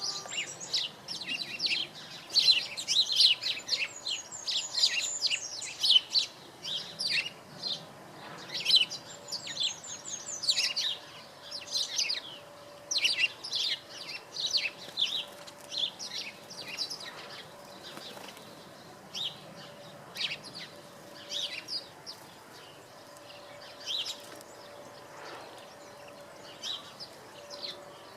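European robin singing close by: phrases of quick, high, varied notes separated by short pauses, busiest in the first half and thinning out later. A faint steady hum runs underneath.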